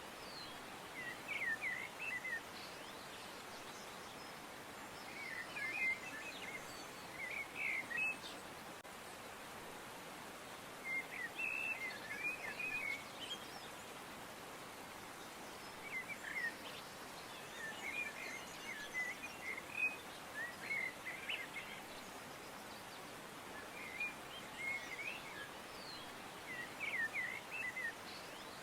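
Small birds chirping in short bursts of quick twittering notes every couple of seconds, over a steady faint outdoor hiss.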